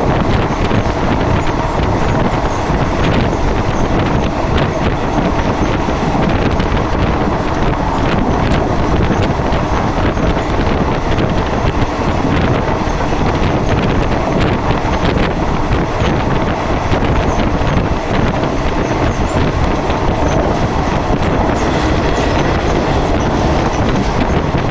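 Thai train running on the line, heard from inside a carriage by the window: a loud, steady rumble with irregular clicks of the wheels over the rails.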